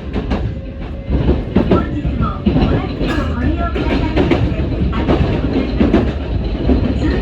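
Renewed Odakyu 1000 series electric train running, heard on board: a steady rumble of wheels on rail with repeated clacks over the rail joints, getting louder about a second in.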